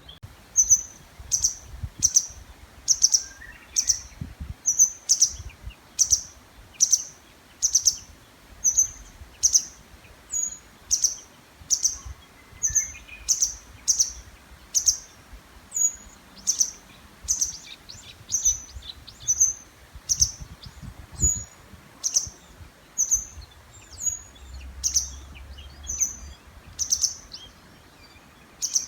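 Birds calling constantly: short, high chirps repeated about twice a second without a break.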